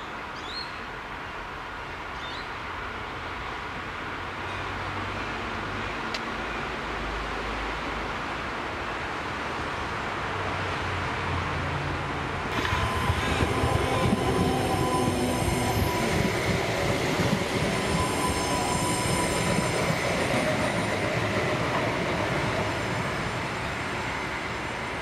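Two-car Adelaide Metro 3000-series diesel-electric railcar set approaching with a low engine hum that grows steadily. About halfway in it becomes suddenly louder and close, with steady whining tones and high squealing from the wheels. A few short bird chirps come right at the start.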